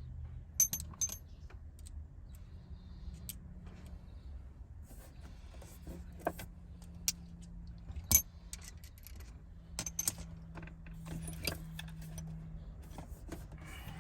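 Metal hand tools and fasteners clinking and rattling as they are handled, with scattered sharp clinks, the loudest a pair just under a second in and one about eight seconds in. A steady low hum runs underneath.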